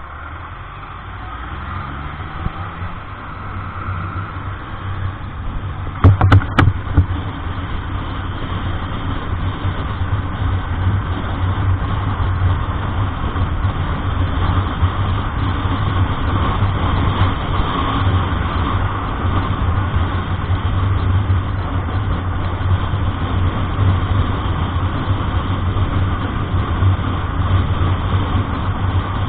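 Truck engine and road noise heard from inside the cab while driving, a steady low drone that grows louder over the first several seconds. A few sharp knocks come about six seconds in.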